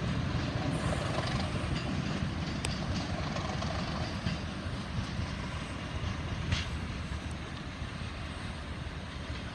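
A train running, with a steady low rumble that slowly fades, and a couple of brief sharp clicks.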